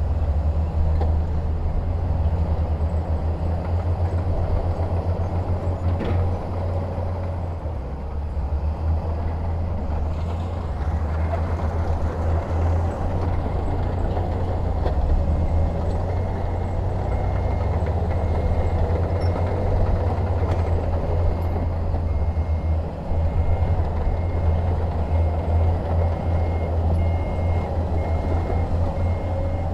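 Heavy diesel construction machinery running, a deep steady engine rumble. There is a single knock about six seconds in, and in the second half a reversing alarm beeps steadily.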